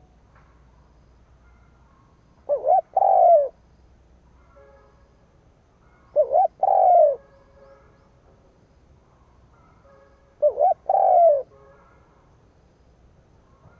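Spotted dove cooing: three calls about four seconds apart, each a short note running into a longer, falling coo. This is the calling of a decoy dove used to lure wild doves.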